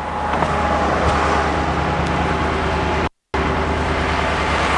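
Heater blower fans of a 2019 Blue Bird Vision school bus running, a steady rush of air over the low hum of the idling propane engine. The sound cuts out for a moment about three seconds in.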